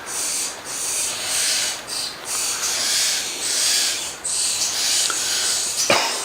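Repeated hissing, rasping calls, about one a second, from birds nesting up in the veranda, over steady rain. A short sharp sound comes near the end.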